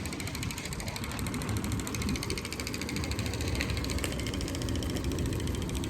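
Bicycle coasting: the freewheel hub ticks rapidly and evenly over a steady rumble of tyres and wind on the microphone.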